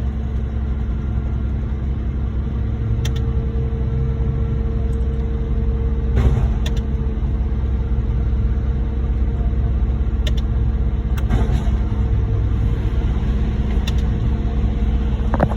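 Heavy diesel truck engines running steadily at a raised idle during a concrete pump pour, a deep rumble with a steady hum, broken by a few short sharp clicks.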